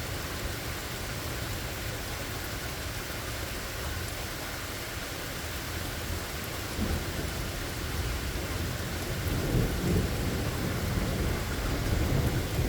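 Steady rain falling, with thunder rumbling in the distance, the rumble swelling about two-thirds of the way in and again near the end.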